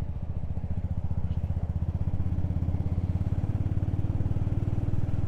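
Motorcycle engine running steadily while riding, a low, evenly pulsing exhaust note that gains a slightly higher tone about two seconds in.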